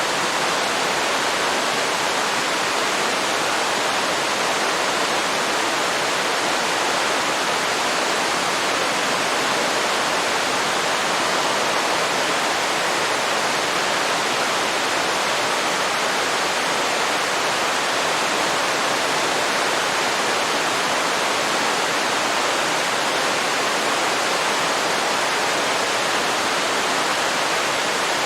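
Waterfall pouring steadily: an even, unbroken rush of water, more hiss than rumble.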